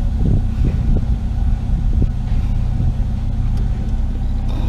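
Steady low rumble of a pickup truck's engine and road noise heard from inside the cab while driving, with a few light knocks or rattles in the first two seconds.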